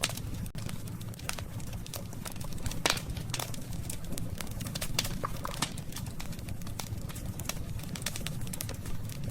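Campfire wood burning and crackling, with frequent sharp pops, the loudest about three seconds in, over a steady low rumble.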